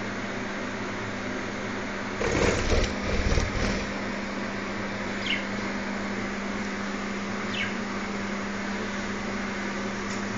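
Budgerigar wings flapping in a short flurry about two seconds in, followed by two short, high, falling budgie chirps, over a steady background hum.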